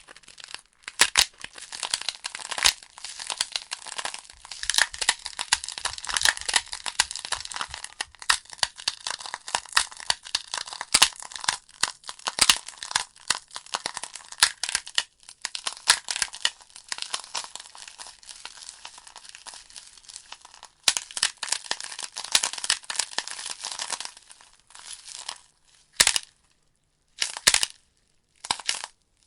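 Wood fire burning in a fireplace: logs crackling with a dense run of sharp pops and hiss. Near the end the crackle thins to a few separate pops with short silent gaps between them.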